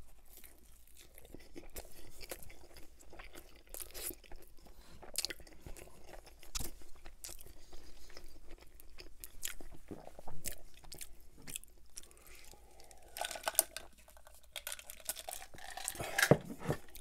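Close-miked chewing of a bite of pizza: crunching on the crust with wet mouth clicks and smacks, some crunches louder than others.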